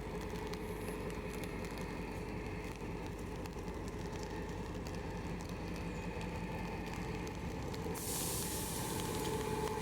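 GM G22CU diesel-electric locomotive's two-stroke diesel engine running steadily. Near the end, a loud burst of compressed-air hiss starts and keeps going.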